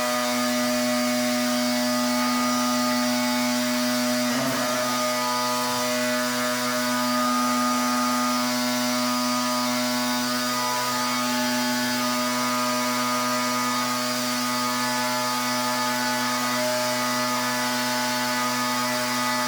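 Pressure washer running steadily: a constant humming drone from its motor and pump over the hiss of the high-pressure spray. The drone wavers briefly about four seconds in.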